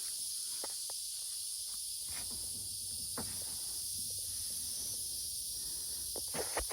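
Steady high-pitched chirring of insects outdoors, with a few faint knocks.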